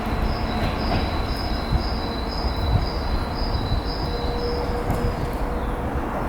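A Merseyrail electric multiple unit at the platform, its steady low rumble overlaid by a repeating two-tone beep, about two a second, that stops about five seconds in.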